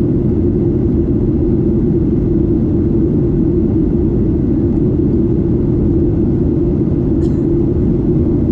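Steady, loud cabin drone of a Boeing 737-8 (737 MAX 8) airliner, engine and airflow noise heard from a seat near its CFM LEAP-1B engine, deep and unchanging.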